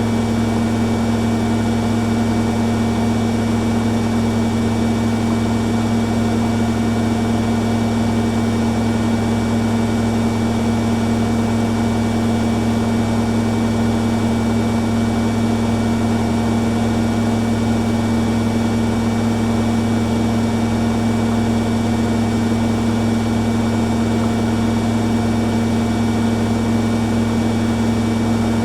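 Two washing machines, a Hoover Dynamic Next DXA610IW3 and a Beko Pro AquaTech WX94044EO, running their spin cycles together: a steady hum with a motor whine, the drums holding a constant speed.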